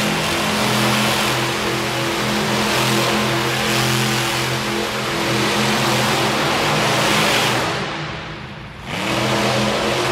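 Monster truck engine running hard at high, fairly steady revs. It drops off briefly about eight seconds in, then comes back on.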